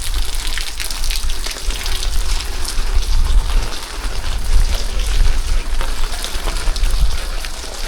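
Heavy rain falling: a steady hiss full of many sharp drop hits close by, over a low uneven rumble.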